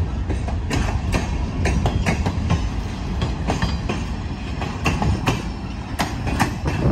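The tail end of a freight train, a covered hopper and then a caboose, rolling past close by. Steel wheels rumble steadily on the rails, with sharp, irregular clicks and knocks throughout.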